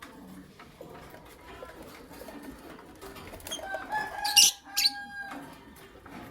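Lovebirds chirping: soft ongoing chatter, then a burst of loud, shrill chirps with a few held calls about four to five seconds in.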